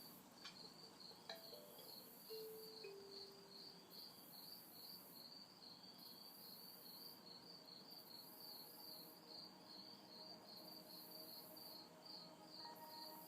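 Night insects chirping faintly in a steady pulsing rhythm of about three chirps a second, over a higher insect hiss that swells and fades about once a second. Two soft held hummed notes, the second a step lower, come and go about two to four seconds in.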